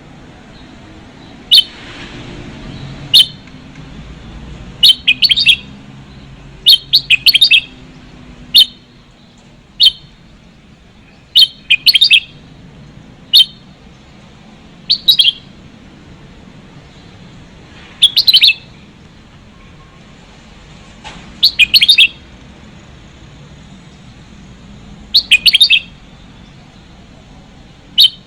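Red-whiskered bulbuls calling: short, loud chirping phrases repeated every one to three seconds, used as a lure call for trapping.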